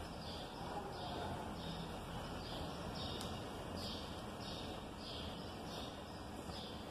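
A small bird chirping over and over, short high chirps about every half second, over a faint steady low hum.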